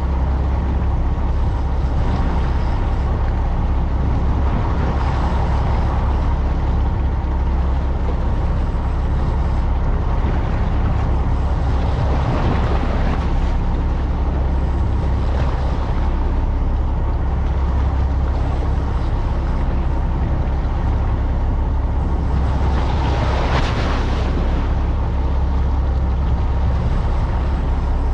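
Fishing boat's engine running with a steady low drone, with the rush of wind and water swelling over it a few times.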